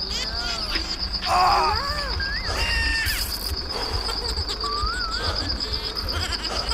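A steady high trill, pulsing fast like an insect's, with scattered short whistling chirps that glide up and down over a low rumble.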